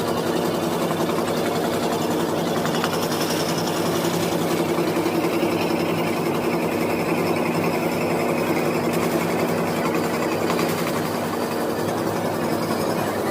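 Electric scroll saw running steadily, its reciprocating blade cutting through a wooden board to pierce out the lettering.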